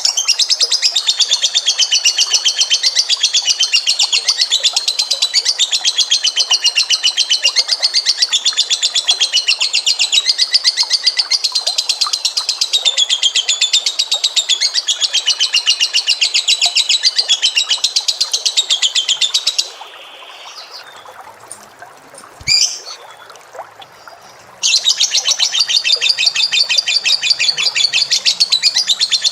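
A pet bird's long, rapid, high-pitched chattering trill of many notes a second, wavering up and down in pitch. About twenty seconds in it breaks off for about five seconds, with a single short call in the gap, then resumes.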